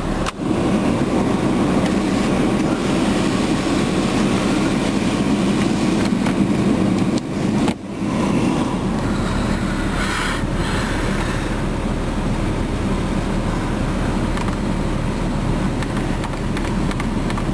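Steady cabin noise of a running 2004 Jeep Grand Cherokee, heard from inside the vehicle, cut off briefly twice.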